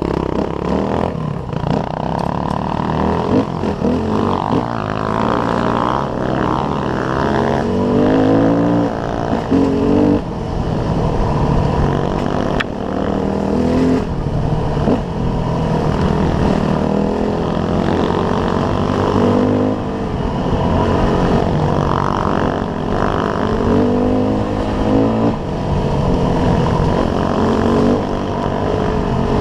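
Pit bike engine revving hard while riding, its pitch climbing and dropping back again and again as the throttle opens and the gears change.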